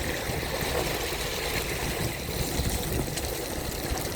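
Electric wheelchair rolling through rainwater on a wet road: a steady wash of tyre hiss and splashing.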